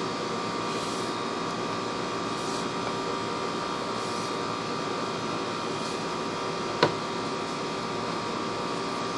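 Steady electrical hum and hiss from the sewer inspection camera's recording system, with one sharp click about seven seconds in.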